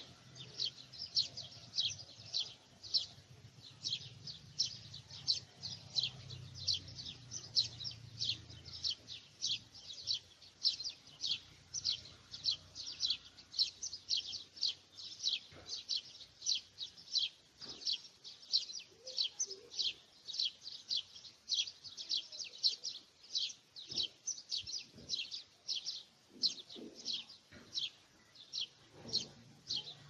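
Bird chirping: short high chirps repeated evenly about twice a second, without a pause.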